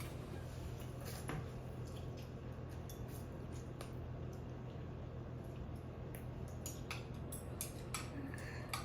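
Scattered light clicks and taps of eating utensils against a bowl during a noodle meal, over a steady low hum.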